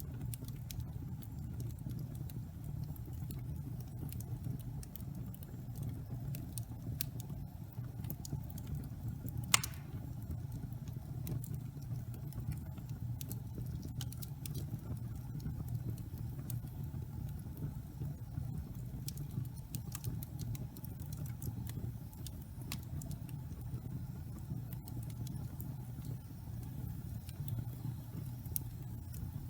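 Wood logs burning in a fireplace: a steady low rumble of flames with frequent small crackles, and one loud pop about nine and a half seconds in.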